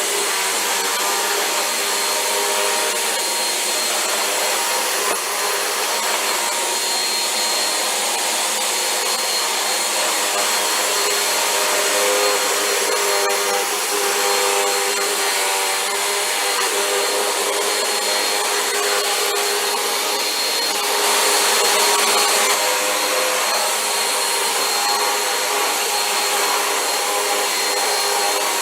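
Vacuum cleaner running steadily as it is pushed over the floor, a continuous motor whine under a rush of airflow, swelling briefly louder about two-thirds of the way through.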